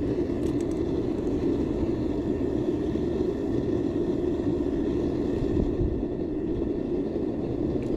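Steady roar of a metal melting furnace's burner, mixed with wind rumbling on the microphone.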